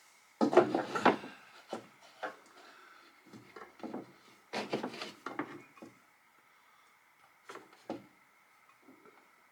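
Irregular knocks, clatter and rubbing of hands working on wood and fittings, strongest in two bursts about half a second in and about four and a half seconds in. A few light taps follow near the end.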